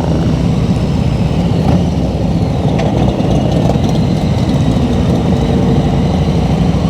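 Harley-Davidson Road Glide Special's V-twin engine running steadily while riding.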